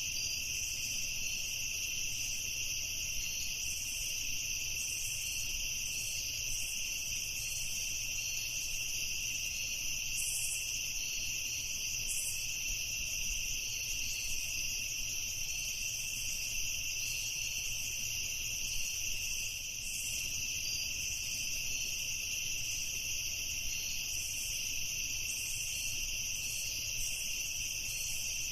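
A chorus of crickets chirping without pause, a steady high-pitched trill.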